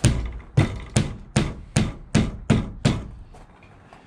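Rapid series of hammer-like knocks: about eight sharp strikes a little under half a second apart, then one lighter knock about a second later.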